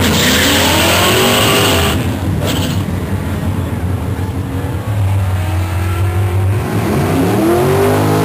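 Chevrolet Camaro SS V8 launching down a drag strip: a sudden burst of engine and tyre noise as it leaves the line, with the engine note climbing for about two seconds. The sound then settles lower as the car pulls away, and a strong rising engine note comes in again near the end.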